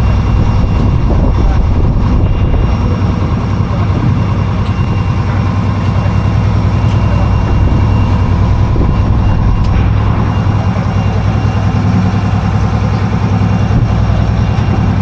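A fishing boat's engine running steadily underway, a loud, even low drone with no change in pace.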